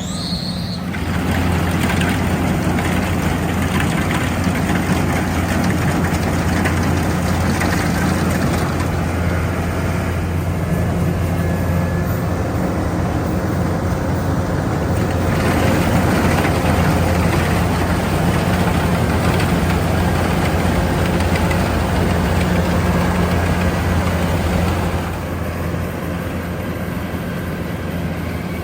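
Rice combine harvester running steadily at work, its engine humming under a noisy clatter of cutting and threshing. It grows louder about halfway through and eases near the end.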